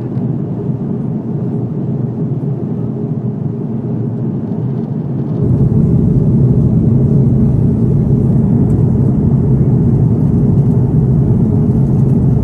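Airbus A330-200 cabin noise in flight: a steady low drone of engines and airflow. About five and a half seconds in it gets louder and deeper.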